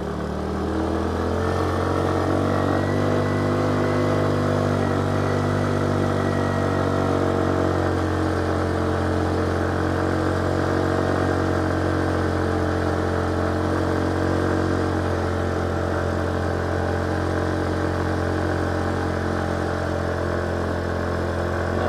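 Motorcycle engine pulling under load up a steep climb. Its note changes about a second in, then holds steady with a slight rise and fall in pitch.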